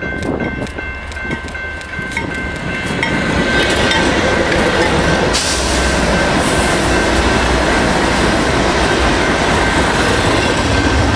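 Freight train passing close by. Wheels click over the rail joints, with thin high ringing tones in the first few seconds, and about three and a half seconds in the passing train grows louder into a steady dense rumble of wheels and cars.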